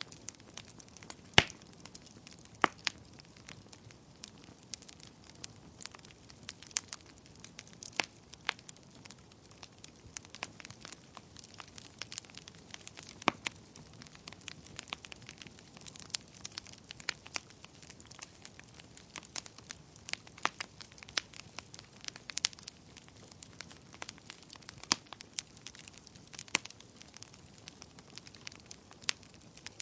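Wood fire crackling: irregular sharp pops and snaps over a low hiss, with a loud pop about a second and a half in.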